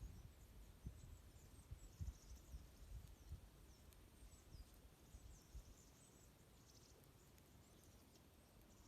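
Small songbirds twittering faintly: many short, thin, high chirps scattered throughout, over a low uneven rumble that eases off after about six seconds.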